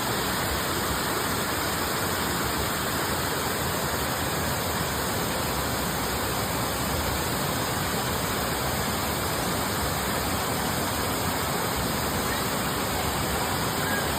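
Steady rush of a waterfall: falling water making an even, unbroken roar.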